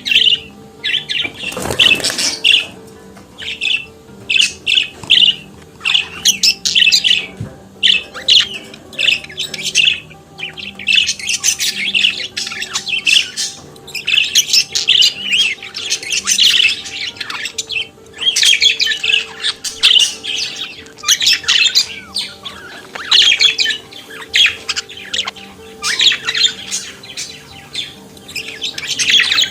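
Budgerigar warbling and chattering: rapid runs of high chirps, clicks and squawks in phrases of a second or few, broken by short pauses.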